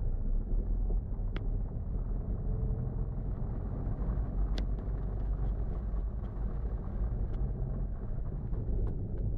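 Steady low rumble of a car engine running, with a couple of faint clicks.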